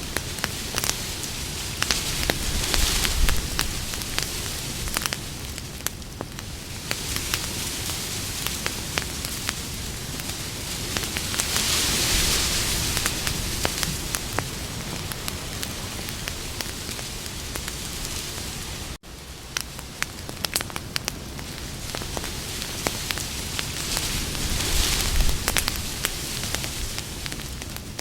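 Campfire burning: many sharp crackles and pops over a steady hiss of flame that swells now and then. A split-second drop-out breaks the sound about two-thirds of the way through.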